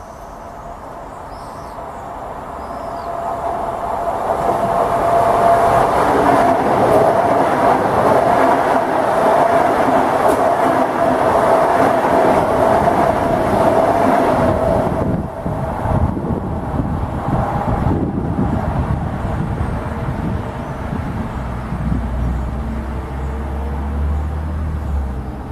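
Passenger train passing through the station at speed close to the platform: its noise builds over a few seconds, then runs loud for about ten seconds with a steady whine in it. About fifteen seconds in it drops off as the carriages clear, and a lower rumble carries on.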